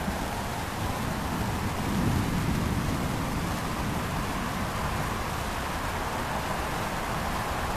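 Heavy rain falling steadily through a thunderstorm, with a low rumble of thunder that swells about two seconds in.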